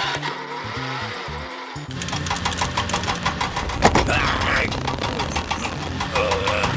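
Background music, joined about two seconds in by a rapid, even mechanical rattle over a low hum, like a small motor or engine running.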